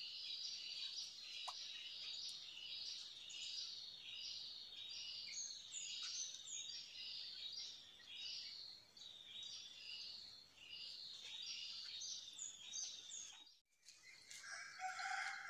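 A bird calling over and over, a short, high falling chirp about twice a second, faint. It cuts off abruptly near the end, and a lower, longer call starts just after.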